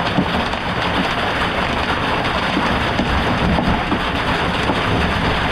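Heavy, marble-sized hail pelting the chicken coop: a loud, steady clatter of countless small hits.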